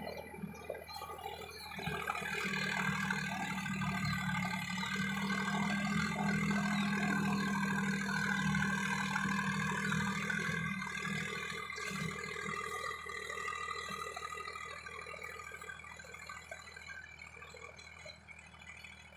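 Tractor diesel engine running steadily with a deep hum, fading away over the last several seconds.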